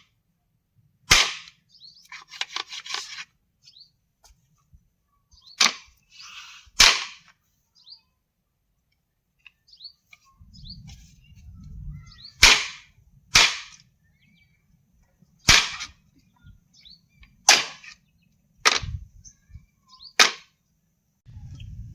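A series of sharp, loud knocks or cracks, about nine in all, irregularly spaced one to three seconds apart, with brief rustling between some of them.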